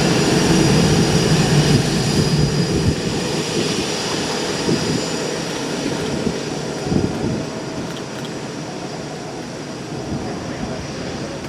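Jet airliner engines running, a continuous rumble with a steady high whine that is loudest at the start and slowly fades.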